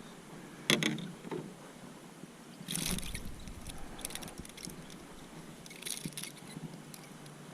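Handling noises on a fishing kayak: a sharp knock against the hull or gear under a second in, then short splashing, rushing water sounds a few times.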